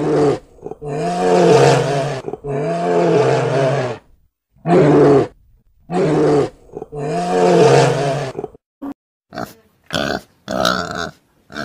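Brown bear calling in about six drawn-out, low-pitched cries, each about a second long. Near the end, pigs grunting in short, quick bursts.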